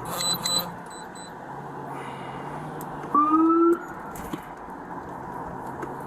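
Steady hum of a police vehicle cabin, with a few short high electronic beeps in the first second. About three seconds in comes a brief, slightly rising electronic tone, the loudest sound.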